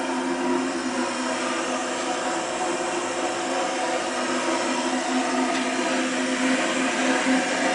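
Perchloroethylene dry-cleaning machinery running: a steady mechanical whir with a constant low hum.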